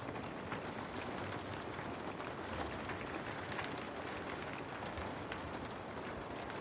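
Steady rain, a constant hiss dotted with many separate drops striking a hard surface.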